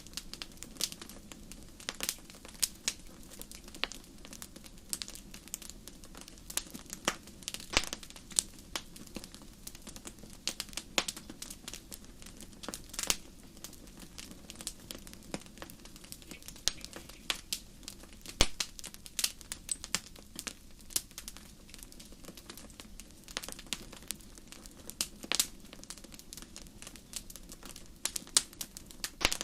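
Wood fire crackling in a fireplace: irregular sharp pops and snaps, several a second, some louder than others, over a soft steady background.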